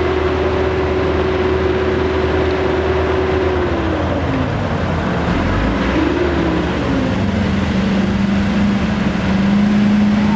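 Dodge diesel pickup pulling the sled under heavy throttle, its engine note holding steady and then dropping about four seconds in as it comes off the throttle at the end of the pull. A brief rev follows, then a lower, steady engine note to the end.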